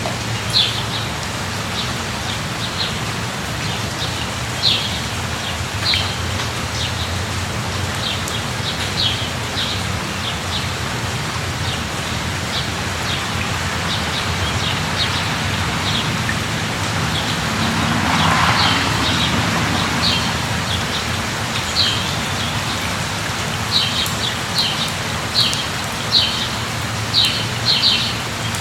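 Steady rain falling, an even hiss, with many short high chirps from small birds that come thicker near the end. A brief swell of louder noise rises and fades a little past the middle.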